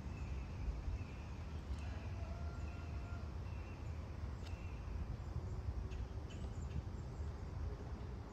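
Outdoor ambience with a steady low rumble. A bird calls a run of about five short notes on one pitch in the first few seconds, and a few faint clicks follow later.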